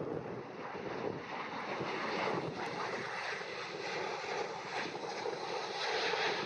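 Jet airliner engines, a broad rushing noise that builds to its loudest near the end.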